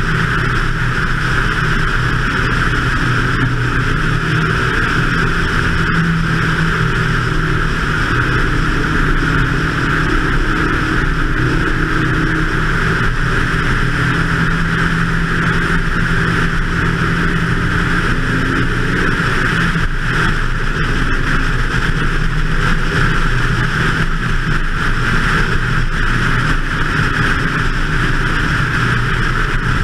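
BMW 2002 race car's four-cylinder engine running hard on track, heard onboard, with a steady rush of wind and road noise over it.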